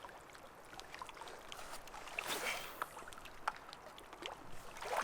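Water sloshing and splashing, with scattered small clicks.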